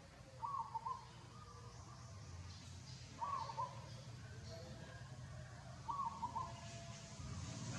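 A short animal call, repeated three times about two and a half seconds apart, over a low steady hum.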